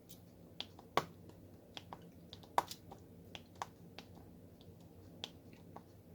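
Light, irregular clicks and taps of diamond painting drills being picked up with a drill pen and pressed onto the sticky canvas, with two sharper taps about a second in and about two and a half seconds in.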